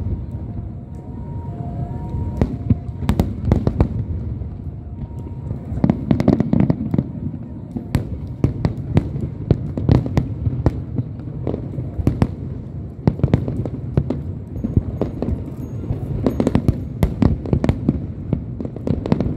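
Aerial fireworks bursting: a fast, irregular run of sharp bangs over a continuous low rumble of booms, heaviest about six seconds in and again near the end.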